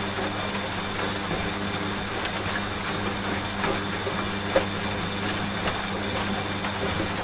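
Washing machine running with a steady motor hum, mixed with rain falling in an even hiss of scattered drops. A thin high whine from the machine stops near the end.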